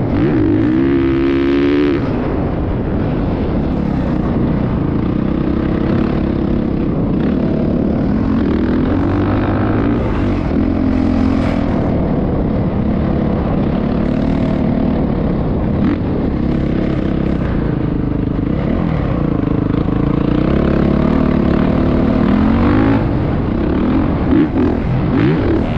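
Motocross motorcycle engine running hard, its pitch rising and falling again and again as the throttle is opened and closed.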